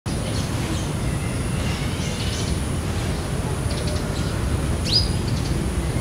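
Outdoor ambience of scattered faint bird chirps, with one clear chirp about five seconds in that slides up and then holds. Under it run a steady low rumble and a thin, steady high hiss.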